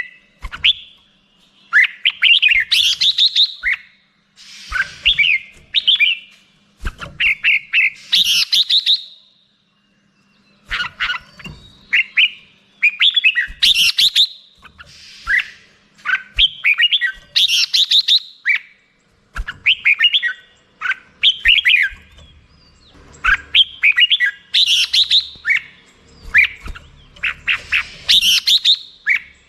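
Red-whiskered bulbul singing: short, quick phrases of bright chirping notes repeated again and again, each a second or two long with brief gaps between, and a longer pause about a third of the way through.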